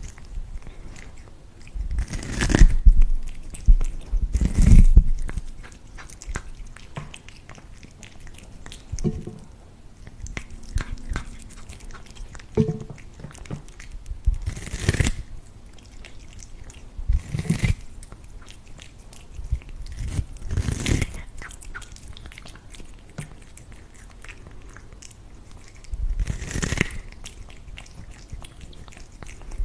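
A cat biting and chewing corn, with loud crunches every few seconds and quieter chewing between them.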